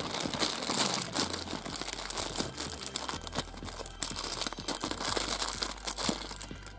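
Thin clear plastic zip-lock bag crinkling and rustling as fingers handle it and work it open, with irregular crackles throughout.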